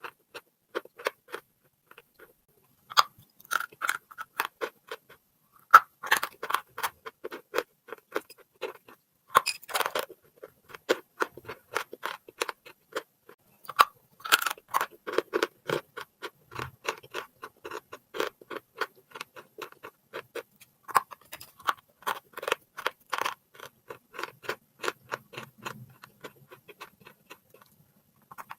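Close-up crunching and chewing of chalk: dense clusters of crisp, irregular cracks and crackles with short pauses between bites.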